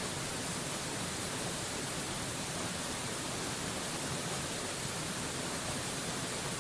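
Steady rushing of a waterfall heard as an even, unbroken hiss, brightest in the high end.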